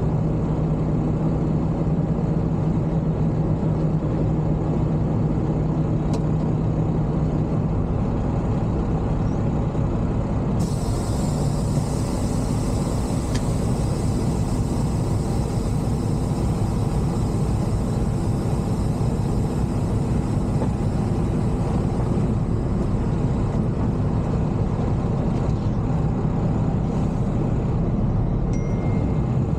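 Semi-truck's diesel engine running with a steady low drone.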